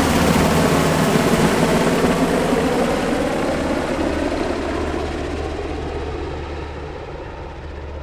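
Sikorsky UH-60 Black Hawk helicopter, its rotors and twin turbine engines making a loud steady rush with a low hum, fading away as the high tones die out first.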